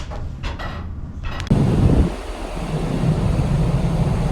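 Wind rushing over the microphone with a steady low drone underneath, cutting in abruptly about a second and a half in after a moment of soft voice and handling sounds.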